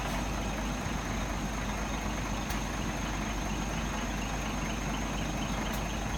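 Scania tipper truck's diesel engine idling steadily.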